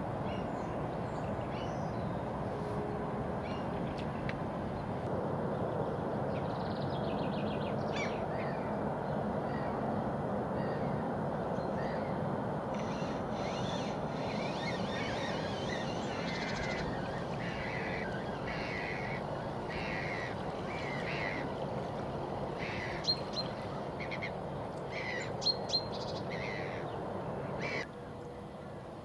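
Birds calling in short repeated notes over a steady low rumbling background, which drops off abruptly near the end.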